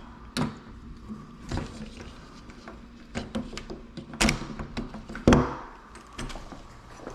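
A series of knocks and clicks from handling a door and its lock hardware, the two loudest about four and five seconds in.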